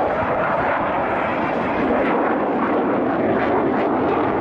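Steady jet noise from the Mitsubishi XF-2 fighter's single General Electric F110 turbofan in flight.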